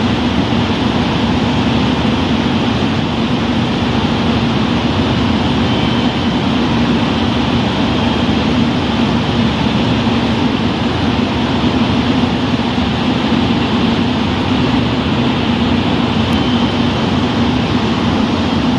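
Diesel express train idling while it stands at the platform: a loud, steady engine rumble with a low hum that does not change.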